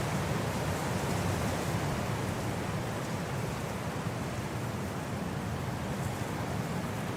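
Winter wind blowing as a steady, even rush with no distinct gusts, deepest in its low rumble.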